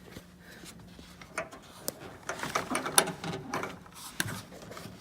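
Irregular small metal clicks and rattles from fitting the latch linkage rod inside a Mitsubishi Lancer door, coming thickest in the middle, with the sharpest click about three seconds in.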